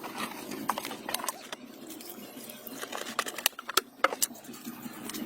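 A scatter of irregular light clicks and taps, a few sharper ones near the end, over a low steady background hum.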